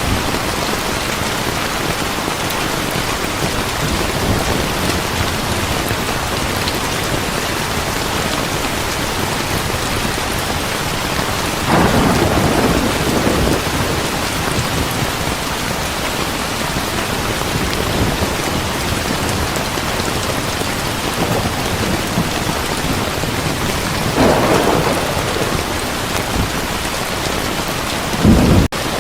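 Heavy rain falling steadily, with thunder rumbling three times: about twelve seconds in, about twenty-four seconds in, and briefly near the end.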